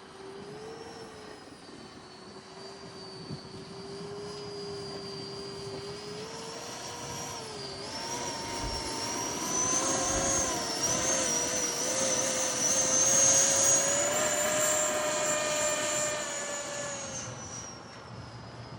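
Electric ducted-fan whine of a Freewing Eurofighter RC jet in flight. The pitch wavers up and down, and the sound grows louder as the jet passes near, loudest past the middle, then fades.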